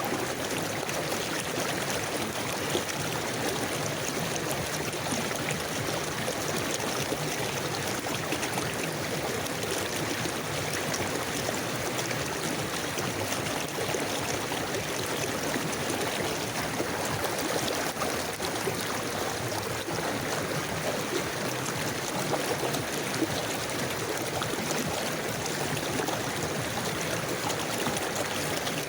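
River water flowing steadily, an even unbroken rush of moving water.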